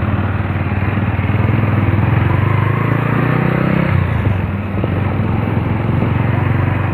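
Motorcycle engine running under way, its note climbing a little and then dropping back about four seconds in.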